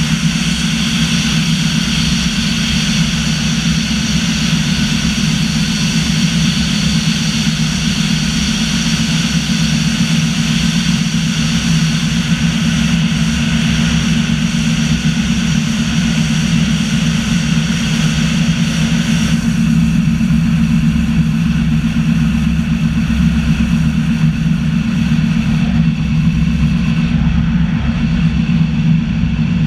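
Zentralbahn electric train running steadily along the track, a continuous rumble with a steady electric whine. About two-thirds of the way through, the brighter hiss drops away abruptly as the train comes out of the tunnel.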